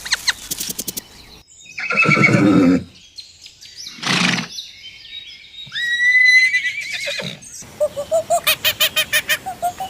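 A string of different animal calls cut one after another: a quick run of chirps at the start, a loud pitched call about two seconds in, a short burst at four seconds, a whistled call that rises and holds around six seconds, then rapid repeated calls about four a second near the end.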